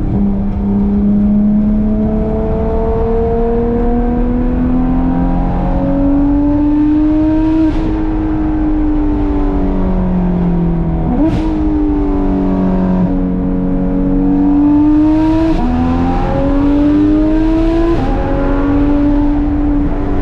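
Porsche 991.2 GT3 RS's naturally aspirated flat-six, on a Dundon crack pipe and street headers, pulling hard on a mountain road. Its pitch climbs and eases through the gears, with four quick gear changes, each a sudden drop in pitch with a short sharp crack from the exhaust.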